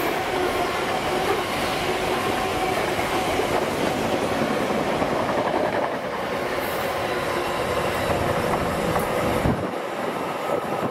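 Loaded container wagons of a freight train rolling past, their wheels clattering and rumbling steadily on the rails. The sound drops a little near the end as the last wagons go by.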